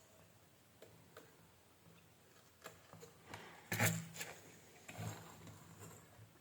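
A few faint clicks and light knocks, a sharper one about four seconds in, over a low steady hum.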